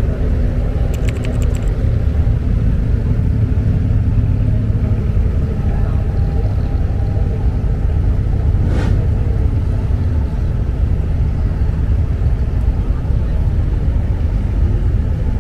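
Abra ferry boat's engine running with a steady low rumble, and a brief sharp knock about nine seconds in.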